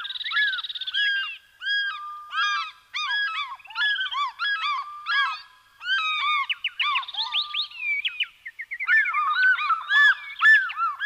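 Several birds giving repeated, overlapping honking calls in quick succession.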